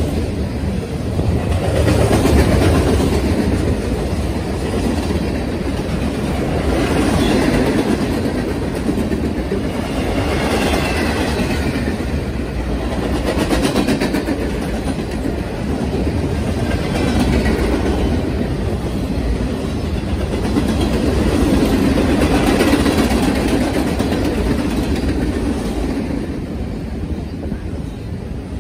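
Freight train cars rolling past close by: a continuous rumble of steel wheels on the rails, swelling and fading every few seconds as the cars go by.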